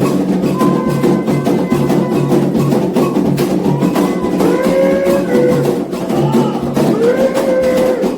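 Candomblé ritual music: atabaque hand drums playing a fast, dense rhythm. Chanting voices come in with long held notes about halfway through and again near the end.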